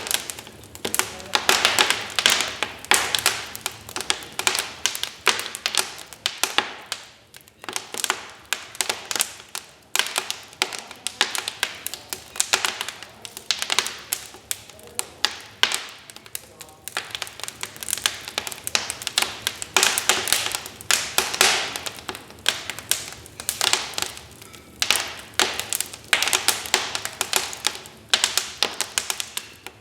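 Wood fire crackling in a fireplace: dense, irregular snaps and pops over a soft hiss, coming in bursts.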